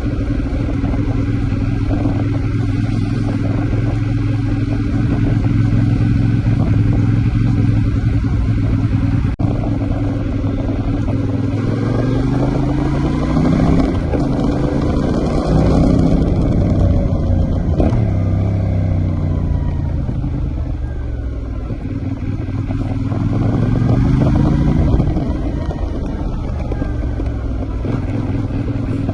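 CFMoto 450NK's 270-degree parallel-twin engine under way, running at a steady pitch for the first ten seconds or so. It then rises and falls several times as the bike accelerates and shifts through the gears.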